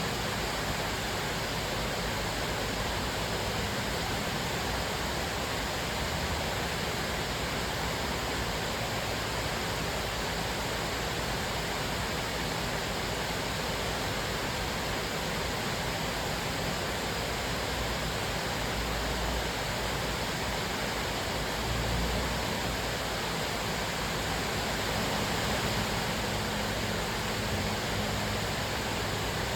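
Cascading waterfall: water falling and splashing over rock ledges in a steady, even rush. There are a few brief low rumbles near the end.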